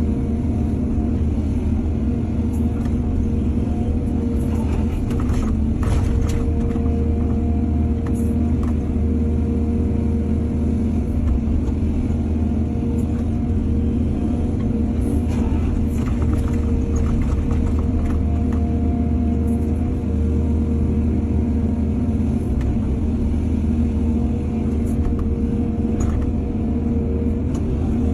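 Excavator's diesel engine running steadily at a low pitch, with a few short knocks and scrapes over it.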